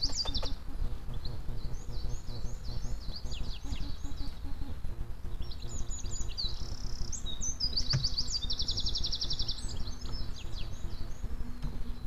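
Songbirds singing outdoors at first light, a scatter of short chirping notes with a fast, even trill lasting about a second, around eight and a half seconds in, over a steady low rumble.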